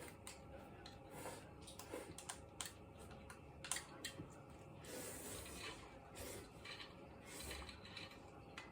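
Faint, irregular small clicks and light scraping of eating at a table, with one sharper click a little past the middle.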